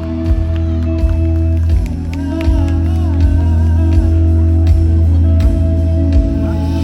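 Live band music at a concert, heard loud through a phone's microphone: deep held bass notes under sustained chords, with a wavering melody line in the middle.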